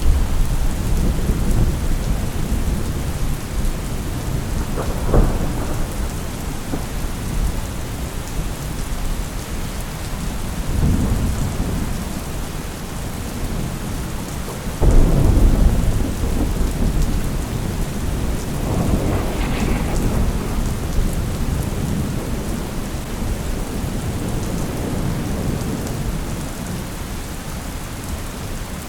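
Thunderstorm: steady heavy rain with repeated deep rolls of thunder. There is a sharp crack about five seconds in and a sudden loud clap about halfway through, followed by long rumbling.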